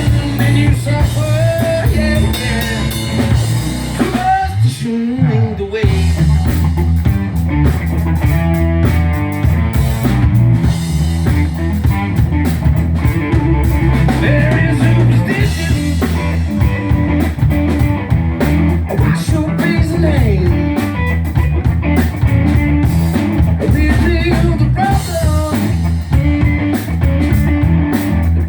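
Rock band playing live with electric guitar, bass and drum kit, and a voice singing over it. The bass drops out briefly about five seconds in, then the band carries on.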